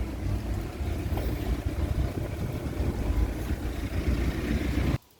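Wind buffeting the microphone: a gusty, uneven low rumble with a hiss over it, which cuts off abruptly near the end.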